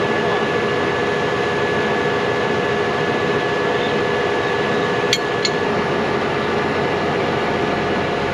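Steady mechanical running noise with a faint constant hum, and two light clicks about five seconds in.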